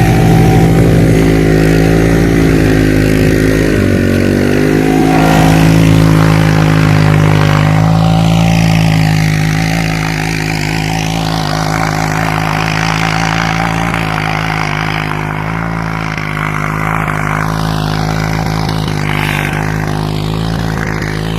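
Suzuki King Quad ATV's single-cylinder engine running hard and steadily, its pitch shifting a little a few times, with a rushing noise that swells and fades over it a third of the way through.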